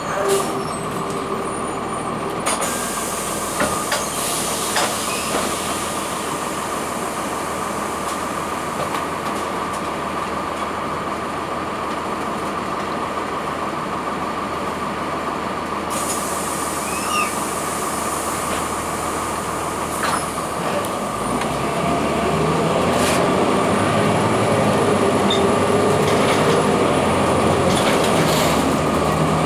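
Cummins ISC diesel engine and Allison B400R automatic transmission of a 2002 Blue Bird CS transit bus running under way, with a steady whine and occasional rattles. About three-quarters through, the engine note rises and gets louder as the bus accelerates.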